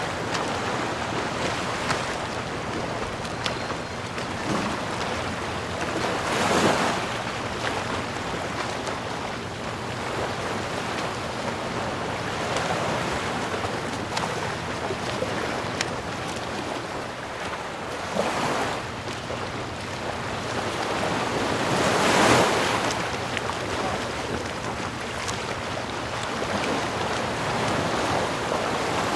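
Sea surf: a steady rush of water with three waves swelling and breaking, the loudest late on.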